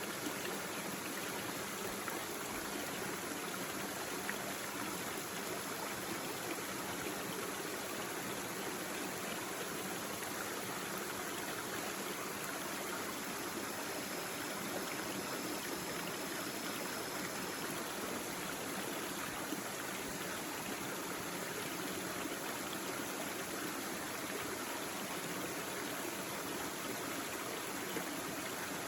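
Small brook babbling steadily.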